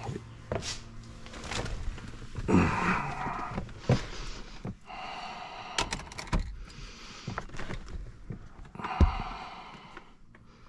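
Irregular thunks, knocks and clicks with short bursts of rustling, like handling and door noises; the loudest thunk comes about nine seconds in.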